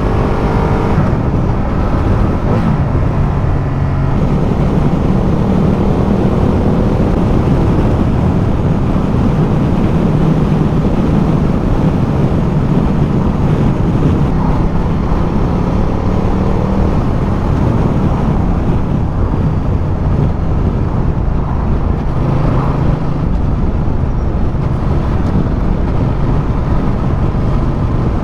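Ducati Multistrada motorcycle riding along at road speed: the engine runs steadily under a heavy rush of wind noise, its pitch stepping up and down a few times as the revs change.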